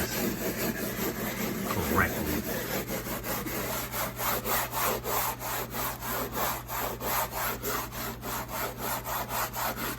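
Steel scrubber scouring stains off the side of a refrigerator over sprinkled Comet cleanser powder, in quick, even back-and-forth strokes.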